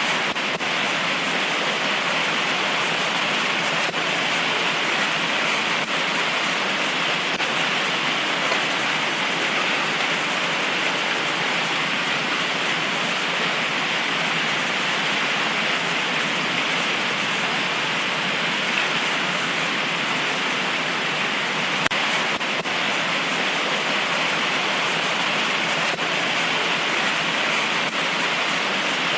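Heavy tropical rain pouring down steadily, an even hiss with a few faint drop ticks.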